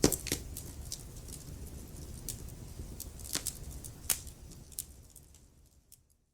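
Wood fire crackling, with sharp pops at irregular intervals, the loudest right at the start, over a low steady rumble of the flames. The sound fades to silence near the end.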